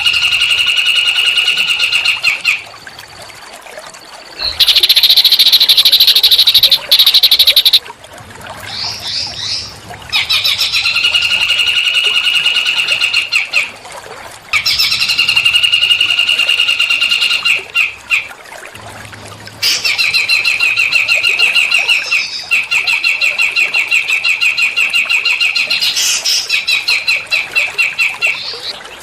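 Small songbird singing fast, buzzy pulsed trills in repeated phrases of several seconds each, with short pauses between; the phrases alternate between a lower and a higher pitch.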